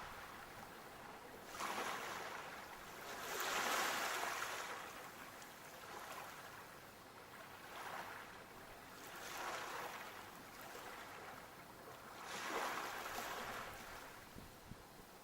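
Sea waves breaking and washing up the shore. The rush swells and fades every few seconds, loudest about four seconds in.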